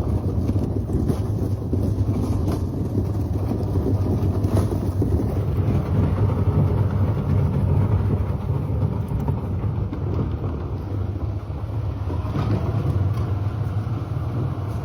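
Side-by-side UTV engine running steadily with a low hum while the vehicle is under way, with a few brief knocks and rattles.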